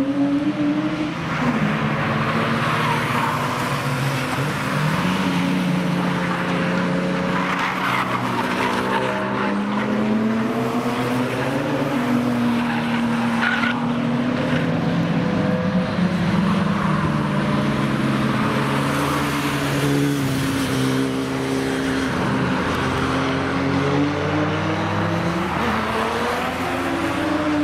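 Cars driven hard on a race track: engine notes rise and fall over and over with throttle and gear changes, over tyre squeal.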